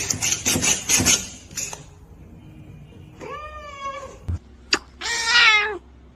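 A domestic cat meowing twice, the second meow louder, each rising and falling in pitch. A few quick scuffing noises come before the meows, and a single sharp click falls between them.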